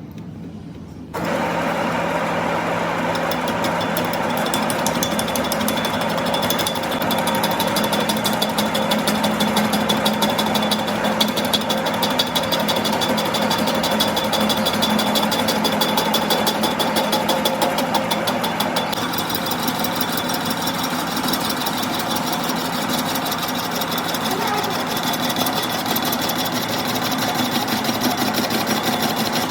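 A workshop machine starts abruptly about a second in and runs with a fast, steady, even chatter.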